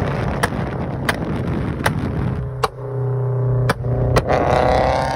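Supercharged Subaru BRZ flat-four engine running with a steady low drone, then rising in pitch with a whine about four seconds in as the revs climb. Sharp clicks sound roughly every three-quarters of a second.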